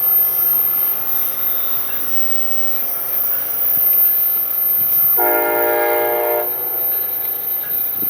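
Freight train running past with a steady rumble, and one horn blast about five seconds in, a chord held for just over a second.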